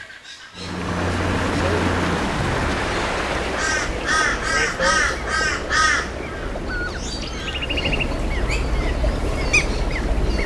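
Birds calling: one gives a quick series of about six arched, harsh calls about four to six seconds in, then smaller birds chirp and one gives a short trill. A steady noisy hiss lies underneath.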